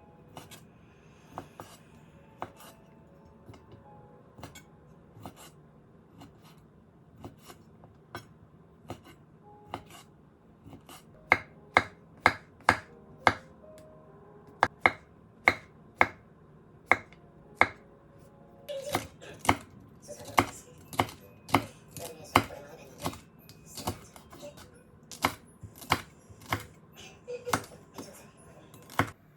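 Knife chopping on a cutting board. The strokes are sparse at first, then turn to an even run of about two sharp chops a second partway through.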